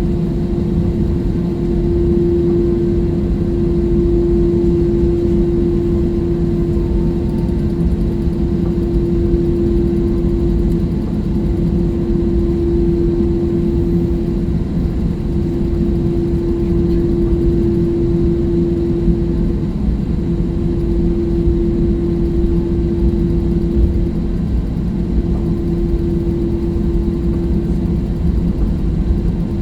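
Airliner cabin noise: the jet engines running with a steady low rumble and a constant hum.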